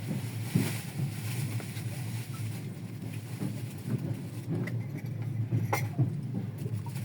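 Steady low rumble of a passenger train, with a few light clicks and one sharp knock about six seconds in.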